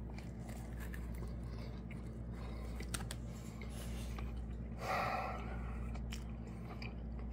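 A person chewing a mouthful of pizza topped with crispy fried wonton chips, quietly, with a few soft clicks. There is a brief louder mouth noise about five seconds in, over a steady low hum.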